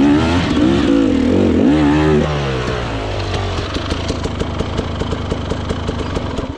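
Dirt bike engine blipped up and down several times, then settling about two seconds in to a steadier idle with an even, ticking beat.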